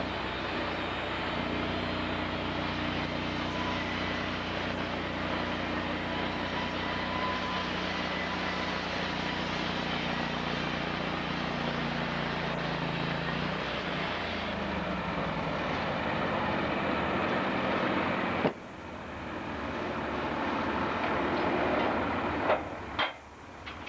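Engine-driven sawmill machinery running steadily, its engine note sagging and recovering a little past halfway. The sound drops away abruptly about three-quarters through, giving way to a rising rush and a couple of sharp knocks near the end.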